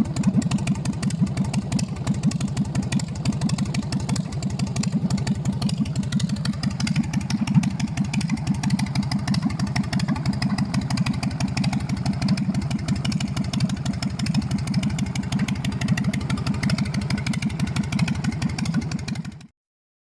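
Harley-Davidson Sportster's air-cooled V-twin running steadily through short drag pipes, a fast even train of exhaust pulses. The sound cuts off suddenly near the end.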